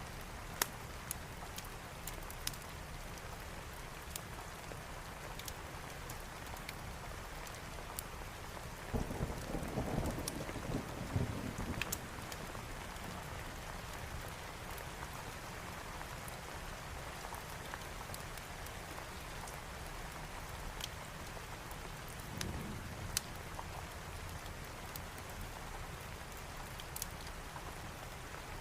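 Steady heavy rain with a rolling rumble of thunder about nine seconds in and a fainter one past twenty seconds, while a wood fire crackles with scattered sharp pops.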